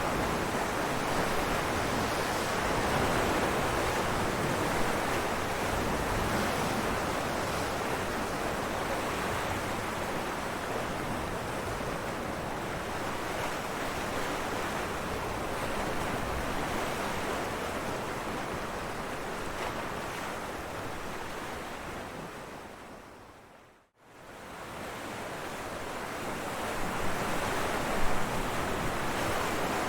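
Ocean waves breaking on rocks, a continuous dense wash of surf. About three-quarters of the way through, the sound fades out to nothing and swells back in, and a sharper crash comes shortly after.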